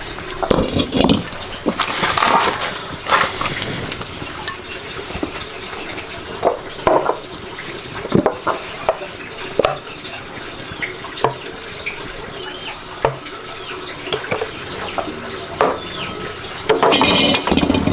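Water splashing and pouring, with scattered knocks and clinks of dishes or utensils, as in washing up in a basin or sink. A louder splashing stretch comes near the end.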